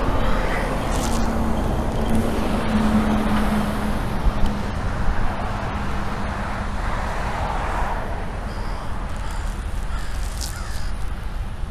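Birds calling over a steady low rumble, with a low steady hum that fades out about seven seconds in.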